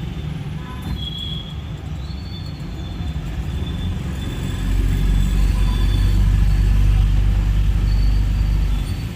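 Low, steady engine rumble of a boat under way, growing louder about halfway through and easing off near the end.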